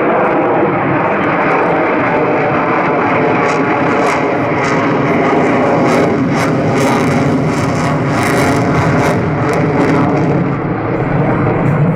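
Lockheed Martin F-22 Raptor's twin Pratt & Whitney F119 turbofan engines during a slow-speed flypast: loud, steady jet noise.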